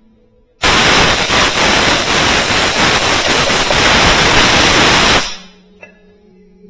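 A loud, steady hiss lasting about four and a half seconds, starting abruptly and cutting off.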